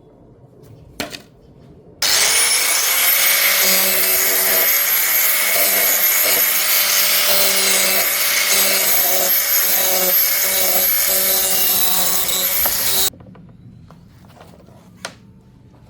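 A handheld power tool starting up with a rising whine, then running loudly for about eleven seconds with a dense cutting or grinding noise whose lower tones waver unevenly as it bites into material; it cuts off abruptly. A single click comes before it starts and another after it stops.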